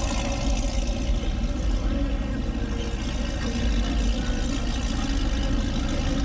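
A car engine running steadily at idle, with a low rumble.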